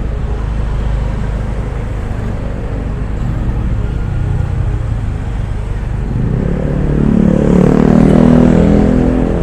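Steady low rumble of a car moving slowly in traffic. About six seconds in, a nearby engine grows louder and rises in pitch, loudest near the end, as a motor vehicle accelerates close by.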